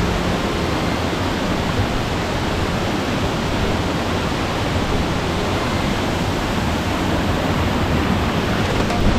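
A tall waterfall's water rushing steadily as an even, loud hiss without a break.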